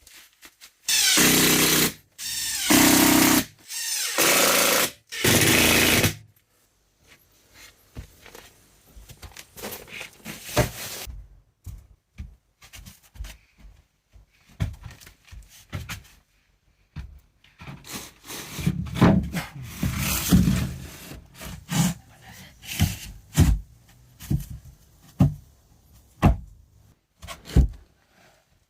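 A power drill running in four short bursts of about a second each, as when driving screws into subfloor boards, followed by scattered knocks and thuds of work on the floor.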